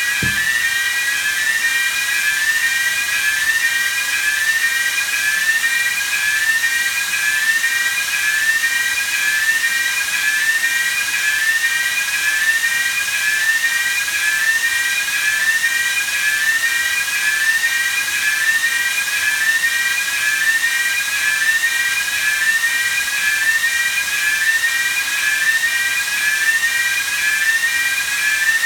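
A steady, high-pitched whistle that warbles up and down in pitch about once or twice a second without a break, heard during a compressed-air pressurization test of a ship's engine room.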